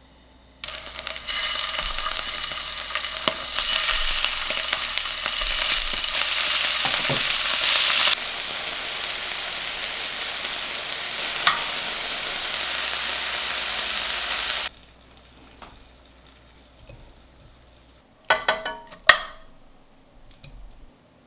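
Food sizzling in hot oil in a frying pan, a loud steady sizzle that starts suddenly and cuts off abruptly about two-thirds of the way through. Near the end, a quick run of sharp metallic clinks.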